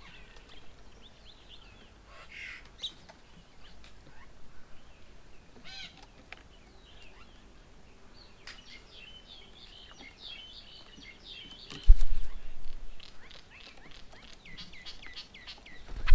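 Several birds chirping and calling around a garden bird table, with a busy run of quick repeated calls in the second half. A single dull low thump comes about three quarters of the way through and is the loudest sound.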